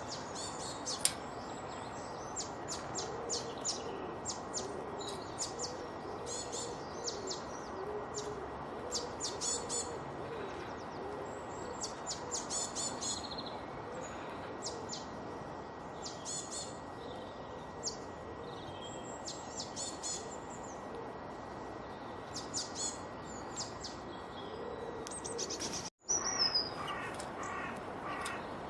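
Several songbirds chirping and trilling in quick, high bursts over a steady background hiss. About 26 seconds in the sound drops out for an instant and resumes with different bird calls, an edit between recordings.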